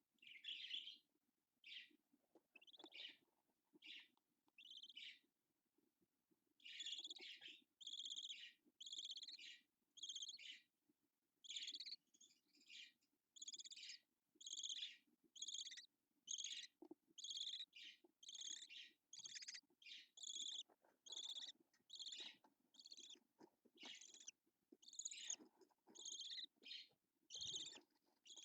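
Budgerigar giving a long series of short, regular chirping calls, one or two a second, with a brief pause about five seconds in. A faint steady hum runs underneath.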